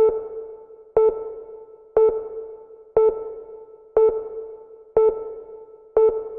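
A single pitched chime, like a sonar ping or a soft bell, struck once a second and dying away after each strike, seven times in a row; an electronic ping in the music soundtrack.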